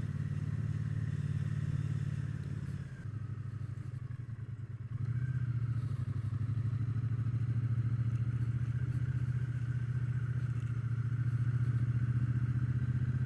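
Triumph Bonneville T120's parallel-twin engine running at a steady road pace. It eases off for about two seconds some three seconds in, then pulls steadily again.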